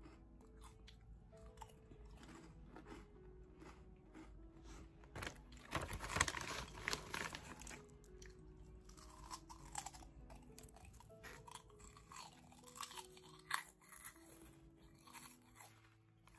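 Crisp snack chips being crunched and chewed close to the microphone in irregular bites, loudest and densest about five to seven seconds in, over soft background music.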